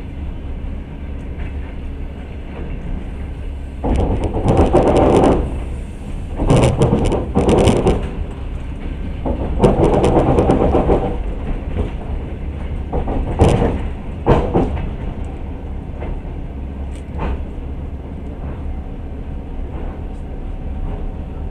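Passenger train carriage running on the rails: a steady low rumble, with four louder stretches of rattling wheel-and-rail clatter.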